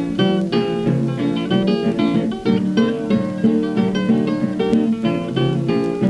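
Acoustic guitar music, plucked notes played in a steady stream with no singing.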